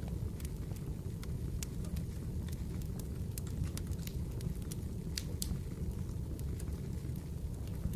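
Fireplace fire crackling: a steady low rumble of burning with irregular, sharp pops and crackles scattered throughout.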